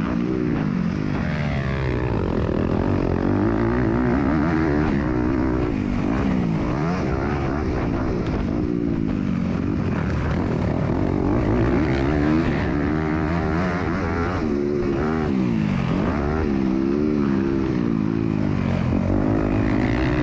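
MX2 motocross bike engine racing, its pitch climbing and dropping every second or two as the throttle is opened and shut through the track's corners and jumps.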